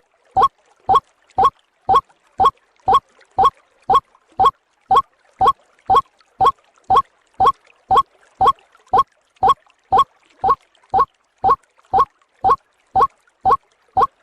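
White-breasted waterhen (ruak-ruak) call played as a lure track: a short rising note repeated steadily about twice a second.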